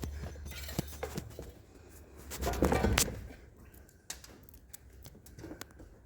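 Workshop handling noise: scattered clicks and knocks of tools and metal parts being moved around the motorcycle. There is a louder scraping noise about two and a half seconds in, ending in a sharp knock.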